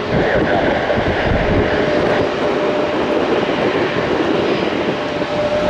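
Airliner engines running with a loud, steady roar. A steady whine sets in about two and a half seconds in and holds.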